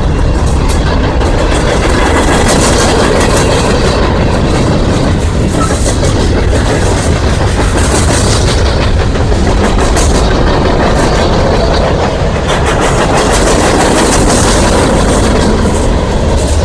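Freight cars (boxcars, covered hoppers and tank cars) rolling past close by: a loud, steady rumble of steel wheels on rail with continual clicking and clacking over the rail joints.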